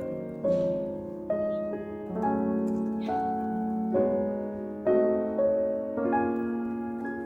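Background music: a piano melody played as gentle chords, a new note or chord struck about once a second.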